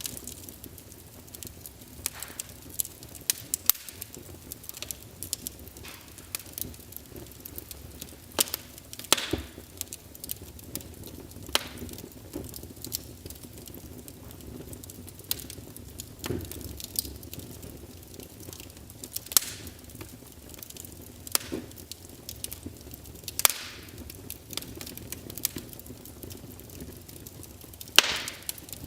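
Wood logs burning in a fireplace, crackling with irregular sharp pops over a low steady hiss of the fire, and a few louder snaps among them.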